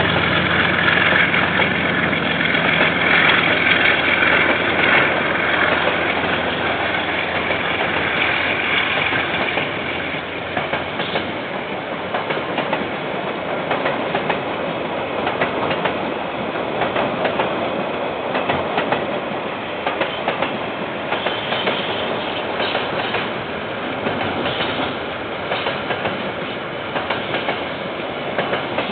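A KiwiRail diesel locomotive's engine hum fades over the first several seconds as it draws away. Then the freight train's container wagons roll past with a steady rumble and repeated clicking of wheels over the rail joints.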